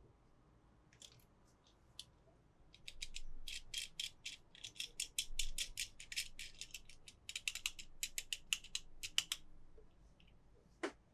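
Rapid, irregular clicking and rattling of small hard plastic toy parts being handled, sparse at first and dense from about three seconds in until near the end.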